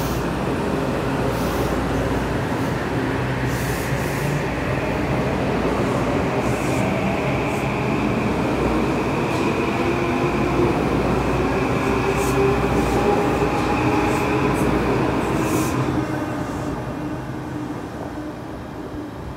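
Metro-North M8 electric multiple unit accelerating away from the platform: traction motors whining up in pitch over steady wheel and rail noise. The sound fades as the last car pulls away, about sixteen seconds in.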